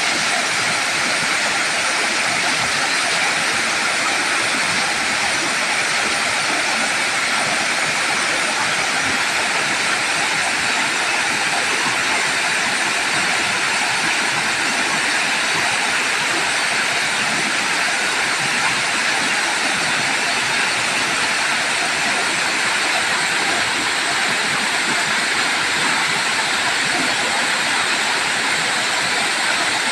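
Waterfall: water pouring over rocks in a steady, unchanging rush of noise.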